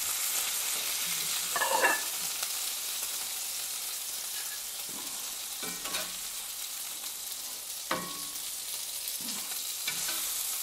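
Hamburger steaks sizzling steadily in a hot cast iron skillet, with a metal spatula scraping and clicking against the pan a few times as the patties are lifted out.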